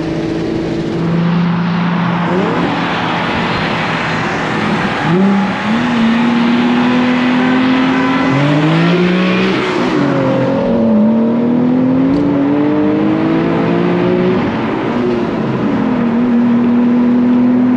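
Infiniti G37's V6 engine heard from inside the cabin, accelerating hard in a roll race: its pitch climbs, then drops back at each upshift, several times over.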